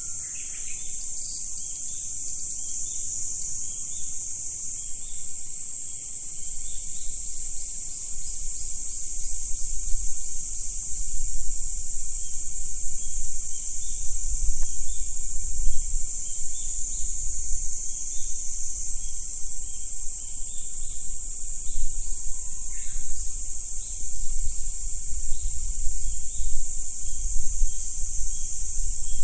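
Steady, high-pitched insect chorus, with a low rumble coming up about six seconds in and a short falling call twice.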